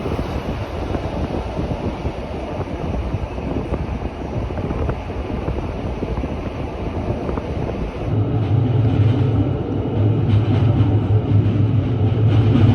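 Rhaetian Railway regional train running, a steady rush of rail and wind noise. About eight seconds in, a strong low hum joins and the sound grows louder.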